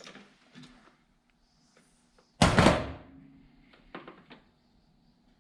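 Work-bench handling noises from tools and small wiring parts: a sharp click at the start, a loud thunk about two and a half seconds in, then a few light clicks.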